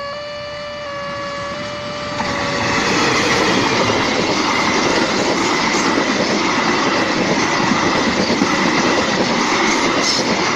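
A railway level-crossing warning signal chiming in a repeating pattern of notes, then a train passing close by from about two seconds in, its wheels clattering and hissing on the rails and covering the chime, with a high steady screech running through it.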